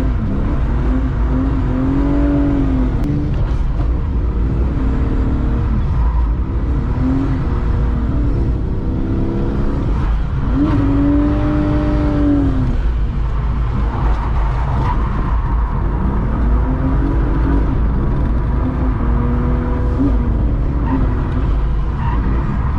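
BMW E36's M52B28 straight-six, breathing through an M50 intake manifold, heard onboard with loud induction noise as it revs up and falls back about eight times while drifting through a run of corners. A heavy, steady low rumble runs underneath.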